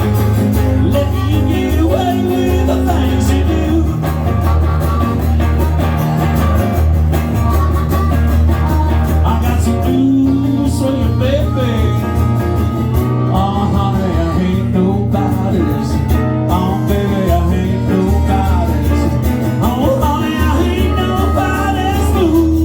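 Country rock band playing an instrumental break: a steady bass and drum groove under a lead guitar playing bending, sliding notes.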